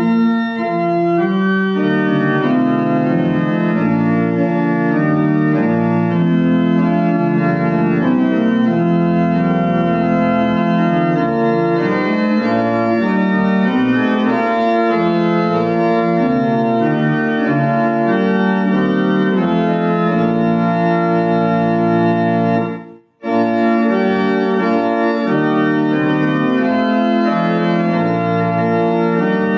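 Organ playing a slow piece in sustained chords, with a very short break about three-quarters of the way through.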